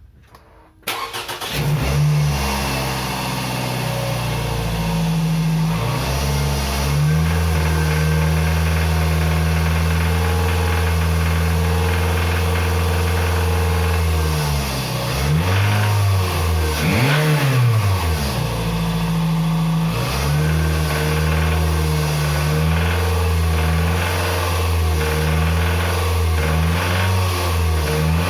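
Toyota RAV4's 2.0-litre 1AZ-FE four-cylinder engine starts about a second in and runs steadily, revved up and back down twice in the middle, with a knock at around 2200 rpm that the mechanic takes for a worn connecting-rod bearing.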